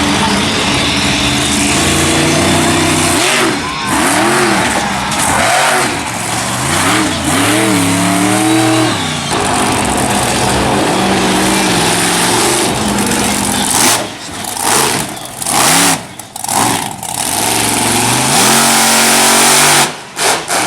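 Monster truck engine revving hard, its pitch climbing and falling again and again, with several abrupt drops in loudness in the last few seconds as the throttle is chopped.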